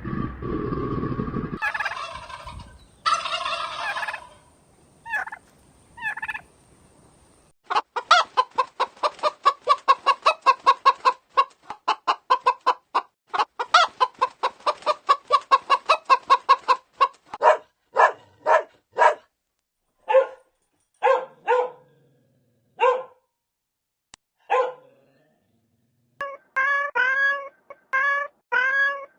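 Domestic fowl calling. A long, rapid run of short repeated calls is followed by several spaced single calls, then a quick series of pitched calls near the end.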